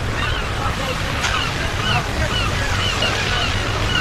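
Ocean surf washing steadily, with many short, repeated bird calls chirping over it.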